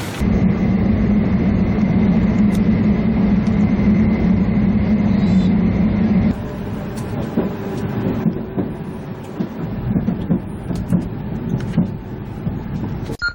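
Train noise: a loud steady hum for about six seconds, then a rougher rumble with scattered clicks and knocks.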